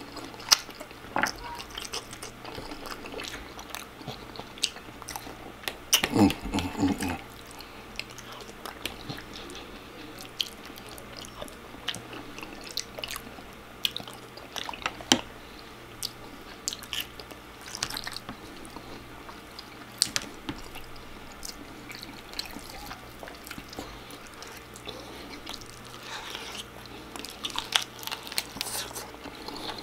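Close-up eating sounds: a person chewing and biting into food, with many short, scattered crunches and smacks.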